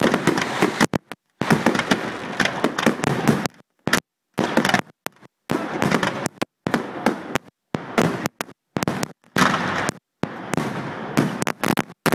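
Fireworks display: a dense, continuous run of bangs and crackling, broken several times by brief gaps of dead silence.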